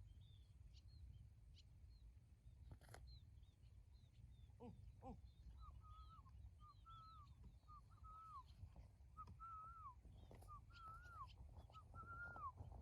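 Faint outdoor birdsong: high chirps throughout, with a run of repeated short whistled notes, each falling at its end, about one a second from roughly halfway through. A low rumble runs underneath.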